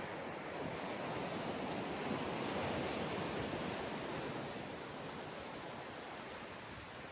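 Ocean waves on a sandy beach: one wave's wash swells to a peak two to three seconds in and then slowly recedes.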